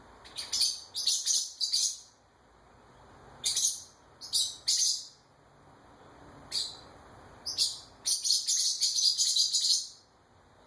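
Small bird chirping in loud, high-pitched runs of rapid chirps, about five bursts with short pauses between them; the longest run comes near the end.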